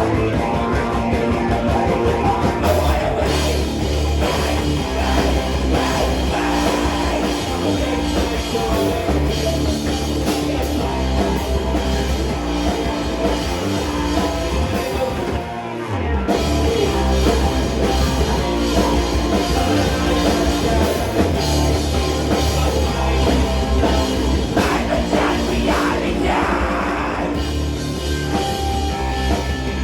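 Live rock band playing a song, loud and continuous, with a short dip in level about halfway through.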